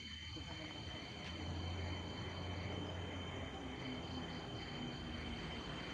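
Night insects, crickets, chirping in a steady pulsing chorus over a continuous high, thin tone, with a low rumble underneath that swells and fades.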